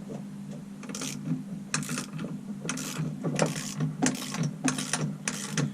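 Ratchet clicking in short back-and-forth strokes, about two a second, turning the screw of a crankshaft installer tool that draws a 1998 CR125 crankshaft into its crankcase bearing. A steady low hum runs underneath.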